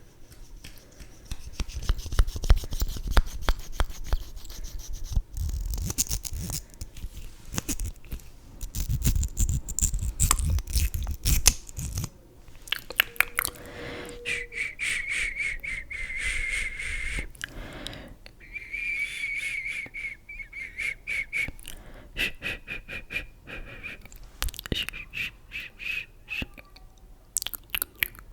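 Close-microphone ASMR handling sounds of makeup items: rapid tapping, scratching and rustling with heavy mic-handling thumps for the first twelve seconds or so. After that come quieter clicks with a thin, high whistling tone that comes and goes.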